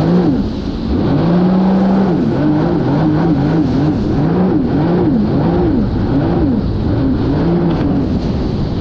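Sea-Doo personal watercraft engine running under way, its pitch rising and falling over and over as the revs change, with two sharp drops and recoveries near the start and a brief steady stretch about two seconds in.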